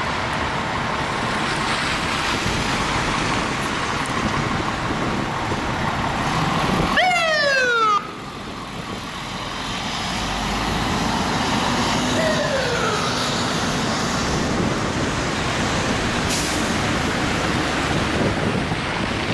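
Fire engine and street traffic rumbling steadily, with a siren sweeping down in pitch about seven seconds in and again, more faintly, about twelve seconds in. The overall sound drops suddenly right after the first sweep.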